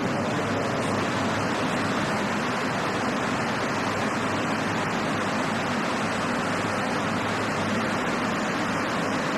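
A steady, even rushing noise with no voice or tone in it, as loud as the recitation on either side.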